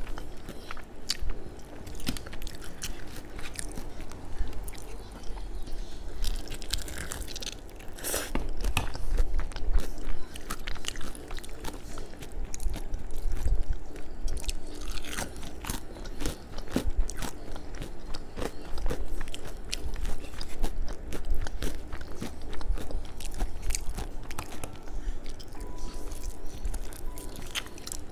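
Someone biting and chewing crispy McDonald's fried chicken, the breaded coating crunching with many short, irregular crackles.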